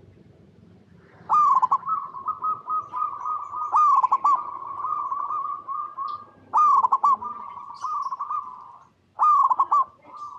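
Zebra dove (perkutut) singing four phrases of rapid, trilling coos, the first about a second in and the rest every two and a half seconds or so. Each phrase opens with its loudest note.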